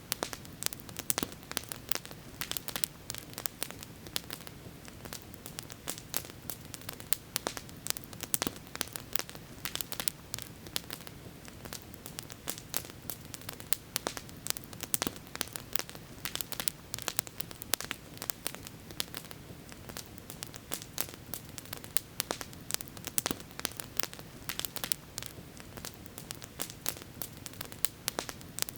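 Campfire burning, with many sharp irregular crackles and pops over a steady low background hiss.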